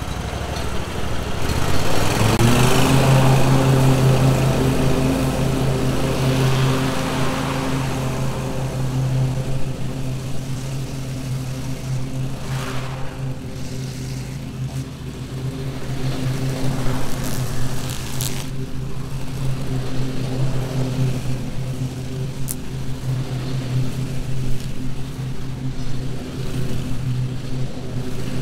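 An engine comes up to speed about two seconds in, then runs at a steady, constant speed.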